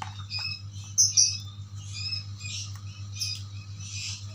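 Barn owl giving short, high-pitched food-begging calls, irregularly about one or two a second, over a steady low hum.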